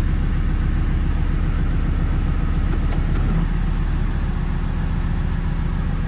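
Dodge Cummins turbo diesel engine idling steadily, a continuous low rumble.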